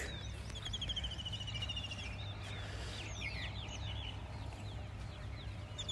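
Birds calling in the open: a fast trill of evenly repeated high notes for about two seconds, then a few quick chirps, over a faint low steady hum.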